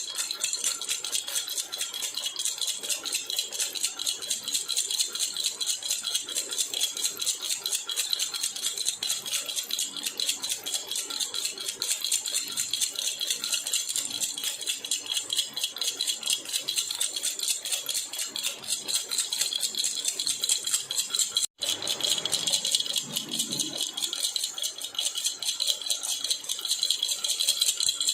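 A silver jhunjhuna (baby rattle) being shaken continuously, giving a rapid, bright metallic jingle. The sound breaks off for a split second about three quarters of the way through, then carries on.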